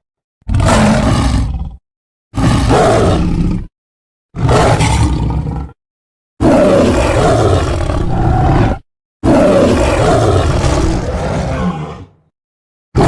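A series of five separate roar sound effects, each one to three seconds long, cut apart by dead silence. The last two are the longest.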